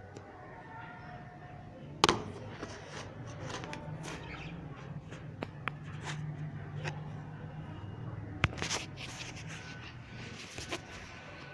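Pet budgerigars chirping and chattering in short bursts, mixed with many sharp clicks and one loud knock about two seconds in, over a steady low hum.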